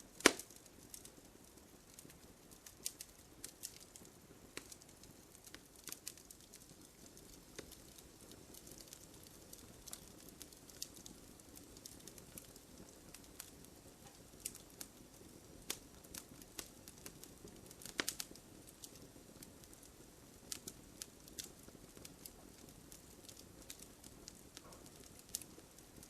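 Wood fire crackling: irregular sharp pops and snaps over a soft hiss, with a loud pop right at the start and another about eighteen seconds in.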